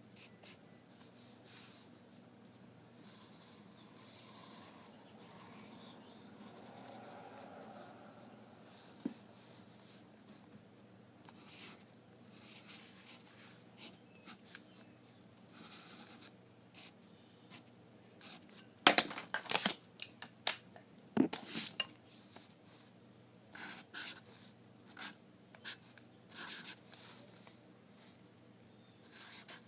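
Drawing on paper: short strokes of a drawing tool come and go irregularly with pauses. Two louder strokes come about two thirds of the way through.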